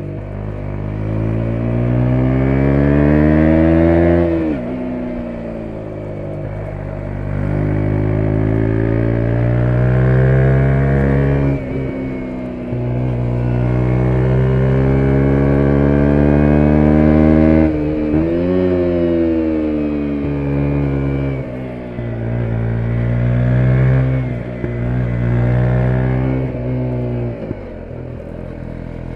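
2017 KTM 125 Duke's single-cylinder four-stroke engine pulling through the gears under acceleration. The pitch climbs, then drops sharply at each shift, about half a dozen times.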